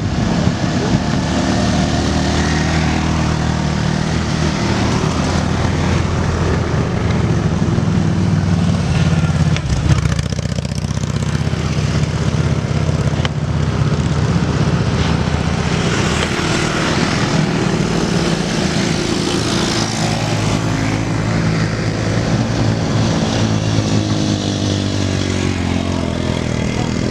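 Vehicle engine sound that carries on steadily and without a break, with pitch rising and falling in places near the end.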